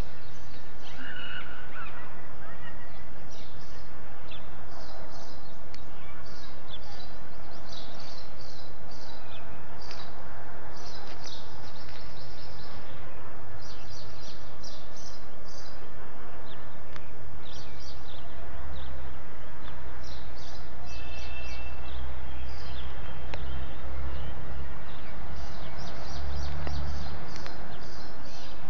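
Birds chirping in short, repeated calls over a steady background hiss, with a low rumble coming in about two-thirds of the way through.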